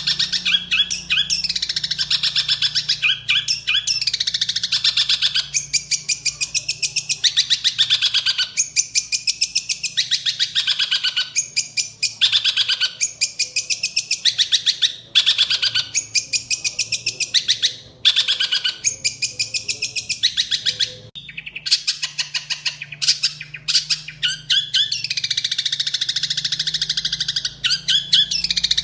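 Long-tailed shrike (cendet) singing a rapid, almost unbroken run of harsh chirps and falling trills, its song filled with mimicked Eurasian tree sparrow chirping. It breaks off briefly a few times.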